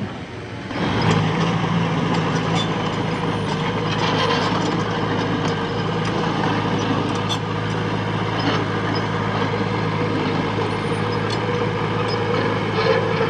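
Diesel engine of heavy earthmoving machinery running steadily, growing louder about a second in, with scattered light clanks.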